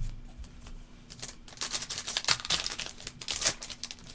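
A soft thump, then a trading-card pack's wrapper being crinkled and torn open, a dense run of crackles.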